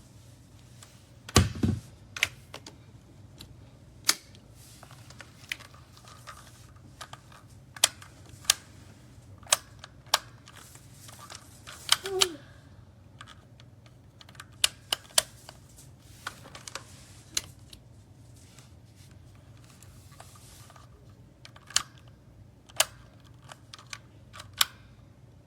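Irregular sharp clicks and taps, with a louder knock about a second and a half in, over a faint low steady hum.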